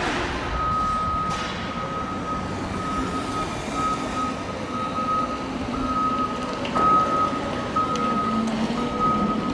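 A heavy vehicle's reversing alarm beeping over and over at one steady pitch, with an engine running underneath.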